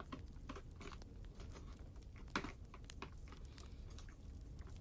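Wood fire crackling, with scattered sharp pops and one louder snap about two and a half seconds in, over a steady low rumble.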